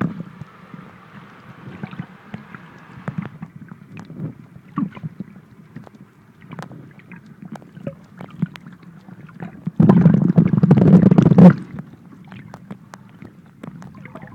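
Muffled underwater sound picked up by a phone sealed in a plastic underwater pouch: scattered clicks and crinkles of the pouch over a low water rush. About ten seconds in, a loud rushing burst of water lasts a second and a half.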